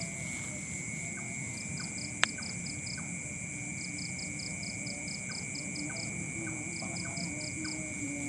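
Night insect chorus: two steady high-pitched drones and crickets chirping in repeated bursts of quick pulses. A single sharp click about two seconds in.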